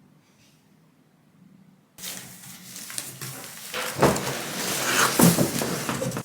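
Household handling noises after a brief hush: a sudden start of clattering knocks and rustling, growing louder and busier, then cut off abruptly.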